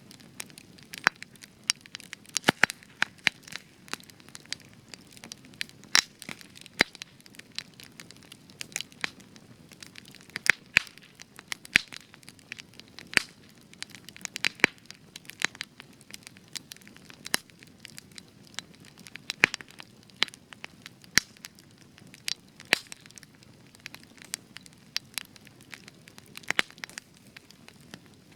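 Spruce-wood campfire burning, with frequent sharp crackles and pops, several a second, over a soft low hiss of flame. The spruce gives it extra crackle.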